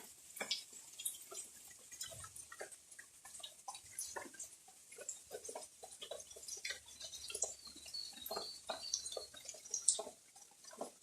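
Rainwater dripping after a shower: irregular separate drops ticking several times a second.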